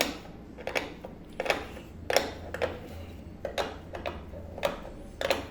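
Sharp metallic clicks, about two a second, as a hand tool levers the bent rim of an aluminium pressure cooker back into shape.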